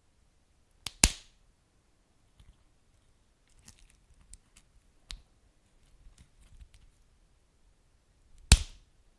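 Wood fire crackling: a few sharp pops and small snaps, with loud pops about a second in and again near the end.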